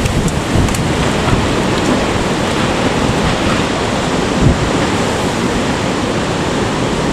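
Typhoon-strength wind gusting hard and buffeting the microphone in a steady loud rush of noise, with a short louder blast about four and a half seconds in.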